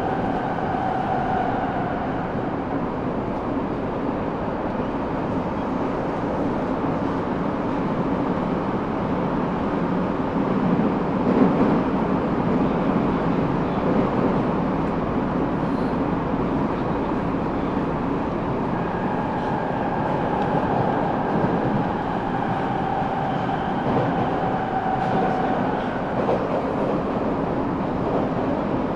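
Eidan 6000 series subway car running between stations, heard from the car floor: steady wheel and track rumble, with a faint high whine from the running gear near the start and again through the second half, and a brief louder swell about a third of the way in.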